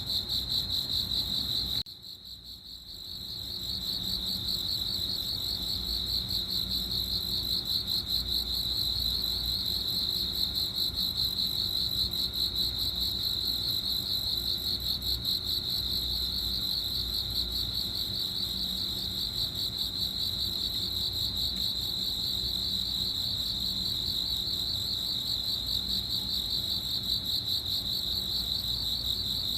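Cricket song: a steady, rapidly pulsing high-pitched trill on one pitch. About two seconds in it drops away briefly, then fades back in.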